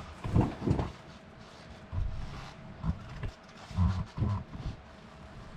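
Camera handling noise: a series of short, low bumps and rustles as the camera is moved and repositioned, over a faint steady hum.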